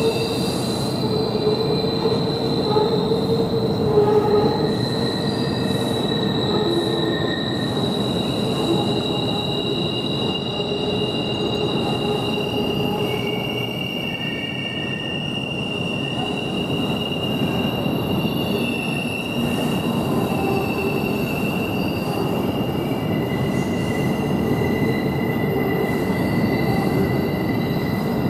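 Double-stack container freight train rolling across a steel girder bridge: a steady rumble with long, high wheel squeals that hold and shift from one pitch to another.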